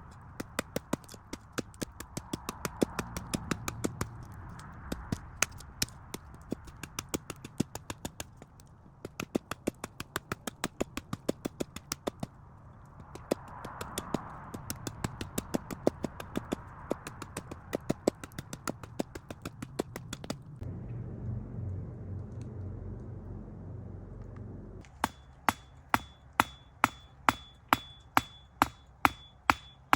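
A rapid series of sharp knocks, about three a second, that stops about twenty seconds in. After a few seconds of low rumble, a steadier run of louder strikes follows, about two a second, each with a short metallic ring.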